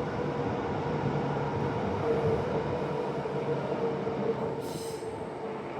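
Transperth A-Series electric train running at the platform, a steady rumble with a held motor hum, and a short high wheel squeal about three-quarters of the way through.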